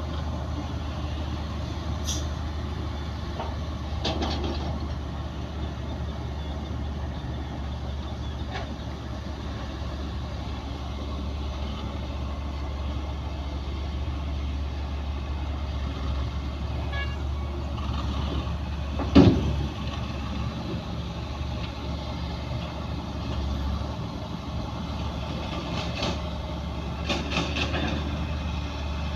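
Heavy diesel earthmoving machinery running steadily with a low engine drone, with a few scattered knocks and one sharp, loud clank about two-thirds of the way through.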